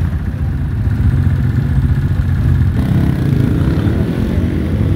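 Off-road race motorcycle engines running, with a fuller engine note joining about three seconds in.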